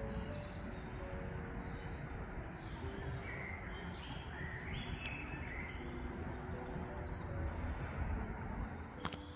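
Several woodland birds singing and chirping, with many short high chirps and quick falling phrases overlapping, over a steady low rumble.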